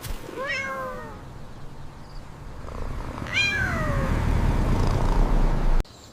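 Domestic cat meowing twice, about three seconds apart, each meow falling in pitch. A low rumble builds under the second meow and cuts off abruptly near the end.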